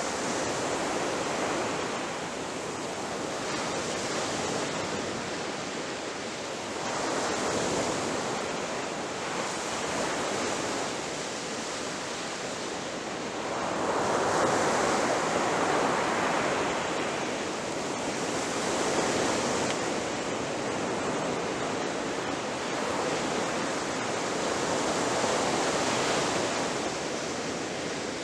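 Ocean surf breaking on a beach: a continuous wash of water noise that swells and eases as waves roll in, the biggest surge about halfway through.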